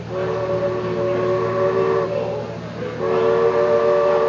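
Ship's chime whistle sounding two long blasts, each a steady three-note chord, the second starting about three seconds in; two blasts signal the ship getting under way.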